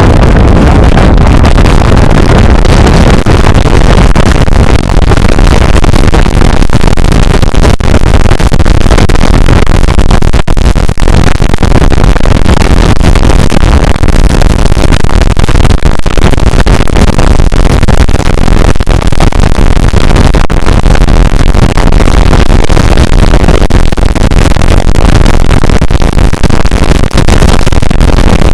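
Hurricane simulator booth's fans blasting air straight onto the microphone: a loud, steady wind rush and buffeting.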